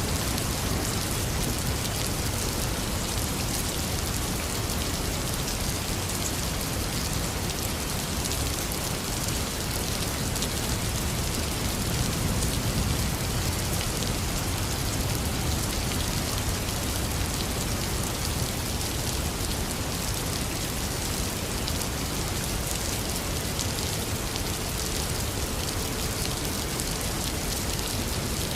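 Heavy rain pouring steadily, a dense even hiss of drops, with a low rumble of distant thunder underneath that swells slightly about halfway through.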